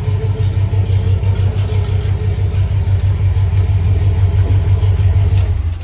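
The engine in a 1948 Chevy COE truck build idling, a steady, evenly pulsing low rumble that runs smoothly.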